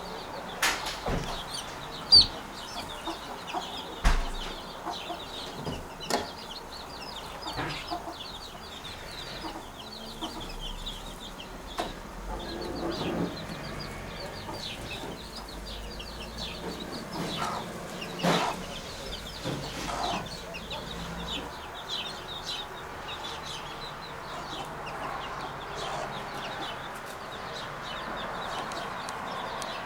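Birds around a common wood pigeons' nest: a dense stream of quick high chirps, a few sharp clicks or snaps in the first seconds, and some low, clucking calls in between.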